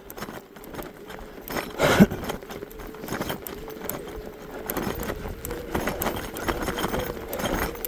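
Electric mountain bike riding through deep snow: its motor gives a steady whine while the tyres crunch and the bike rattles and knocks over the ground, with a loud thump about two seconds in.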